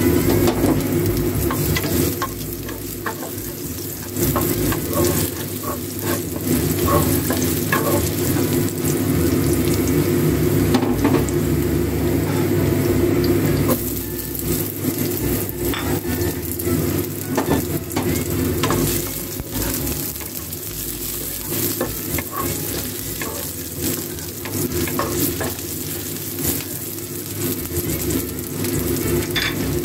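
Garlic and sliced onion sizzling in hot oil in a frying pan: a steady frying hiss with small crackles and pops. The sizzle drops a little about halfway through. A steady low hum runs underneath.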